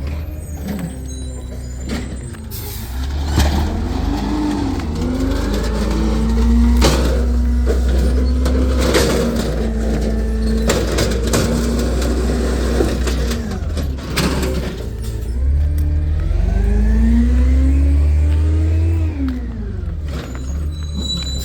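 Garbage truck engine revving up and holding high for several seconds, twice, then dropping back, with several sharp clanks along the way.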